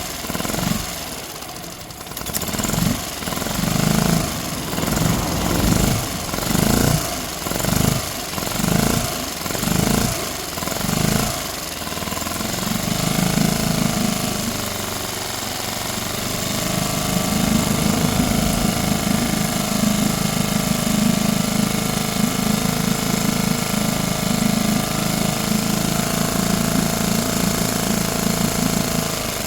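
Tohatsu MFS6DS 6 hp outboard motor running. For about the first twelve seconds it surges in loudness about once a second, then it settles into steady running. It is being run to track down an abnormal noise, which the owner suspects comes from a factory assembly error.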